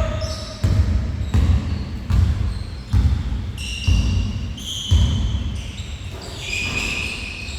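A basketball bouncing on a gym floor in a steady dribbling rhythm, about seven bounces spaced a little under a second apart, echoing in a large hall. A few short high squeaks come between the later bounces.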